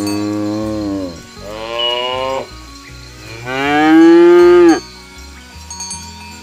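Cattle mooing: three long moos in a row, the last and loudest starting about three and a half seconds in.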